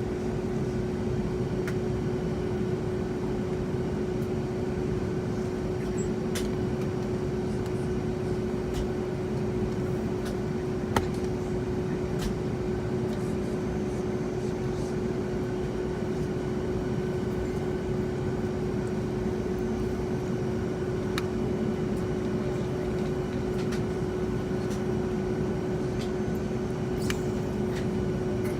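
Steady cabin noise of a Boeing 757-200 on the ground before takeoff with its engines at idle: a constant low rumble under a steady hum, with a few faint ticks and one sharp click about eleven seconds in.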